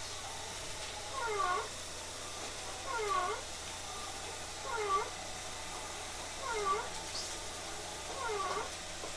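Steady running noise inside a Tobu 30000 series train, with a short pitched squeak that dips and rises in pitch, repeating five times at even intervals of about two seconds.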